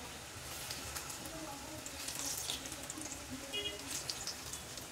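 Egg-stuffed Mughlai paratha sizzling as it shallow-fries in hot oil in a nonstick pan, with many small crackles and pops, the sizzle picking up a little about half a second in.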